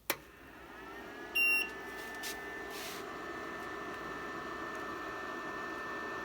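FLSUN delta 3D printer being switched on: a click, then its fans and motors spin up in a rising hum that settles into a steady whine. A short electronic beep comes about a second and a half in.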